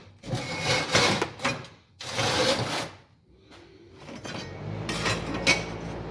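Scraping and clattering as a piece of sheet steel is handled and slid about on a workbench, in a few loud bursts. About four and a half seconds in, a steady machine hum starts and keeps going.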